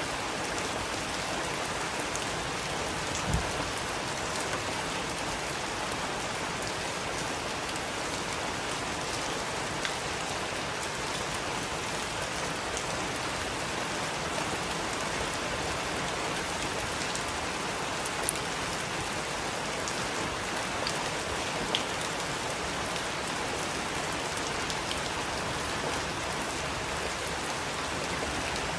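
Heavy rain falling steadily, with a few louder single ticks of drops hitting a surface, including a brief low thump about three seconds in.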